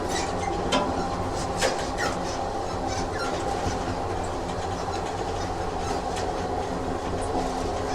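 Train sound effect: a train running on rails with a steady rumble and scattered clicks from the wheels, and a couple of brief wheel squeaks in the first few seconds.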